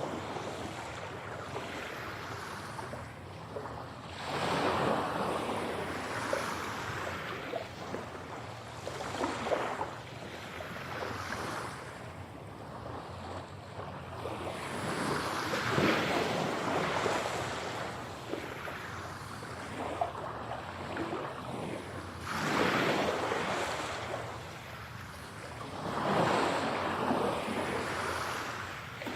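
Sea waves breaking and washing in, one swell every few seconds, over a steady surf hiss, mixed as 8D audio panned around the listener.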